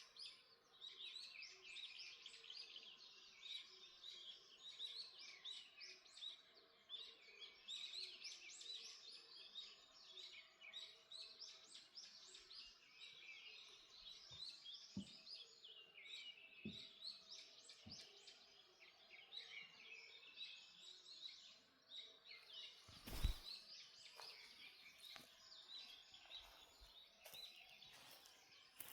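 Dawn chorus of many songbirds in a forest, dense overlapping chirps and trills. A single dull thump about two-thirds of the way through.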